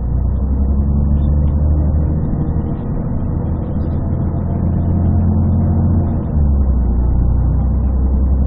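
Scania DSC 11.71 six-cylinder diesel of a city bus, working through its Voith three-speed automatic, heard from inside the bus: a steady low drone that steps up in level about six seconds in. It sounds muffled and bassy because the phone's microphone was partly covered.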